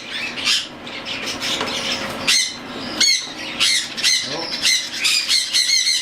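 Young cockatiels giving harsh, scratchy squawks: a rasping stretch for the first two seconds, then short calls repeating quickly, several a second.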